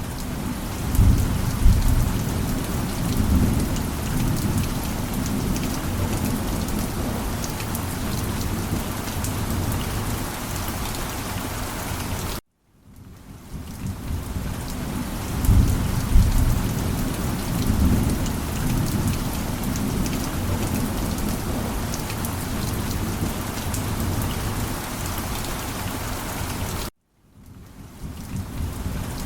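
Steady rain with thunder rumbling low twice. The sound cuts off abruptly to a brief silence twice and fades back in each time, as a loop restarting would.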